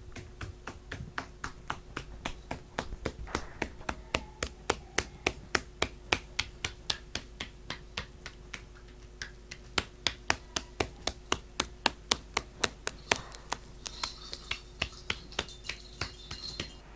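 A long, regular series of sharp clicks or snaps, about three a second, loudest a little past the middle.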